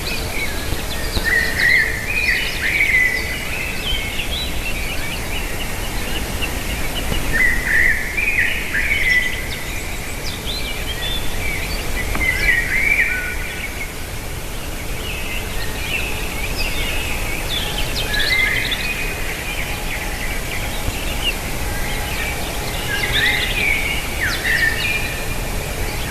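Birds calling in short bursts of high chirps, several clusters a few seconds apart, over steady outdoor background noise.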